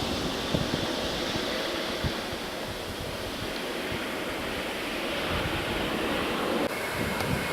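Steady rushing roar of jet airliner engines heard at a distance, mixed with wind on the microphone. The sound changes abruptly near the end, and a faint thin whine follows.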